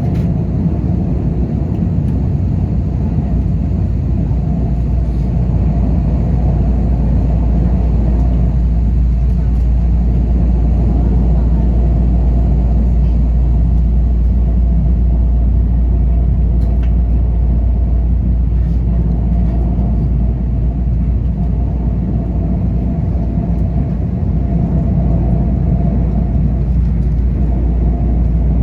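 EMU3000 electric express train running at speed, heard from inside the carriage: a steady low rumble with a faint wavering hum above it.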